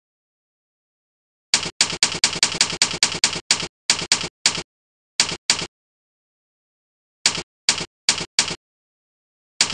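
Typewriter key sound effect played by keyboard-sound software on each keystroke: a quick burst of about fifteen clacks, then a few scattered ones in pairs and groups, with dead silence between them.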